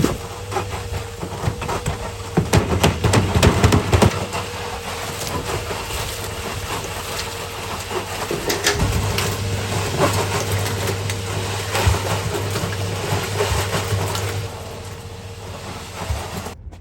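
Old tumble dryer running as a makeshift cement mixer, its motor humming steadily while wet sand and cement tumble and knock around the drum. The knocking is heaviest a couple of seconds in.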